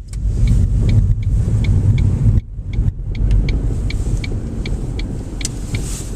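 Car cabin noise while driving: a steady low rumble from the engine and tyres. Over it, even, sharp clicks about three times a second, from the turn-signal relay ticking ahead of a turn.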